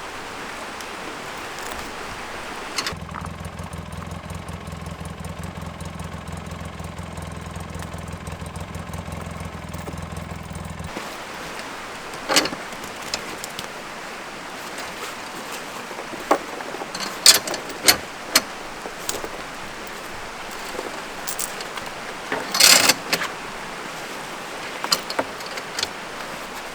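Four-wheeler engine idling steadily for several seconds before cutting off abruptly. After it, a run of sharp clicks and knocks from hooking up the beam.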